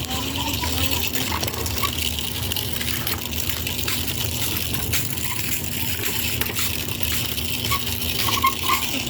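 Steady rushing noise of wind buffeting the microphone during a bike ride, with a low rumble underneath, a faint steady hum and a few light clicks.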